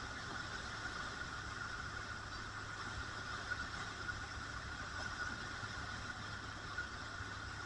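Motorcycle running steadily, a constant hum under an even hiss with no change in pitch or level.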